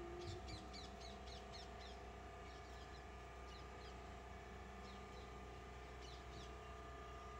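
Faint birds calling: a quick run of short, high chirps over the first three seconds, and a few more about five to six seconds in.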